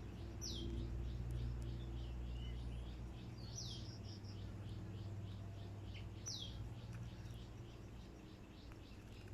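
Oriental magpie-robin (kacer) giving three sharp whistles that slide downward, a few seconds apart, over a steady fast chirping of about four notes a second and a low hum.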